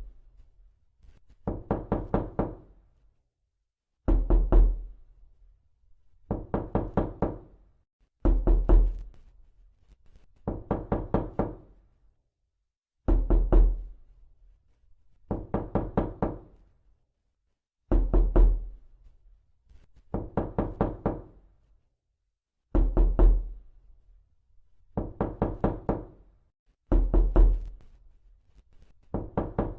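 Knocking in quick bursts of about five to seven raps, a burst roughly every two seconds. Louder, heavier bursts alternate with softer ones.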